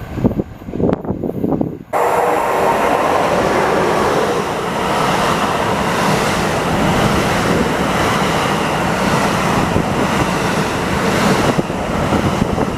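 A passenger train rushing past at speed: the noise jumps up suddenly about two seconds in as the train reaches the microphone, holds as a steady loud rush of wheels and air, and eases slightly near the end.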